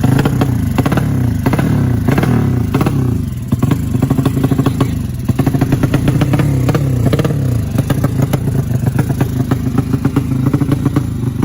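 200cc motorcycle engine revved several times, its pitch rising and then falling back toward idle after each blip, with a rapid pulsing exhaust beat throughout.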